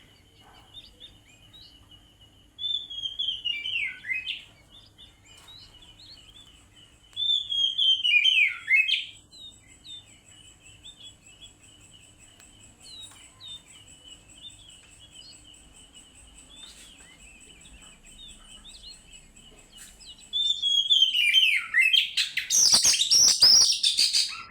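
Oriental magpie-robin (kacer) singing in loud, rich warbling phrases of about two seconds each, twice early on, then a longer, louder burst of song from about 20 seconds in.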